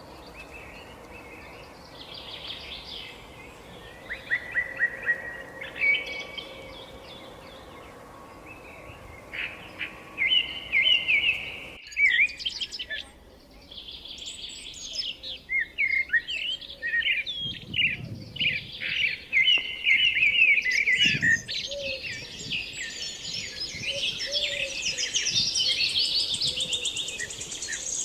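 Several birds chirping and twittering, with short calls and trills. The calls are scattered at first and become a dense, overlapping chatter from about halfway through.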